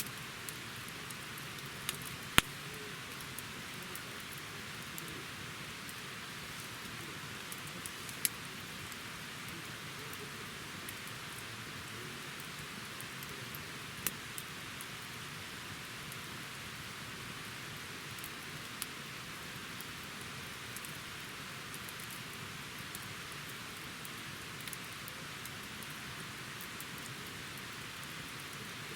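Wood campfire burning: a steady soft hiss with a handful of sharp crackles and pops, the loudest about two seconds in.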